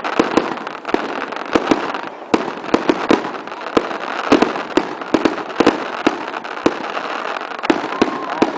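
Fireworks display: many sharp bangs and crackles in a rapid, irregular string over a steady background hiss.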